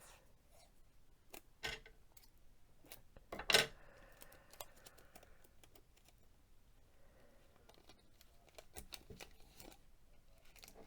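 Tape being handled and pressed onto a mug: scattered soft clicks, ticks and crinkles, the sharpest about three and a half seconds in.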